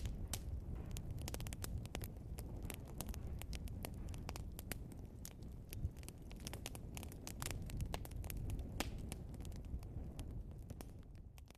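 Burning logs in a fireplace crackling and popping: many sharp irregular snaps over the low, steady rumble of the flames. The sound fades out near the end.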